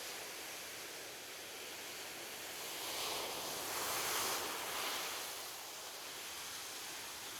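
Ocean surf: a steady wash of waves, with one wave swelling and breaking about three seconds in, then easing back over the next two seconds.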